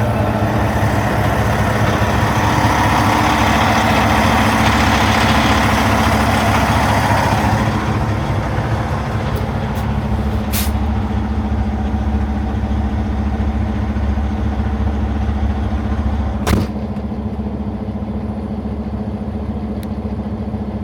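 Peterbilt semi truck's diesel engine idling just after starting, a steady hum with a loud hiss over it that fades about seven seconds in. A sharp click comes about ten seconds in and a thump about sixteen seconds in, after which the engine sounds quieter.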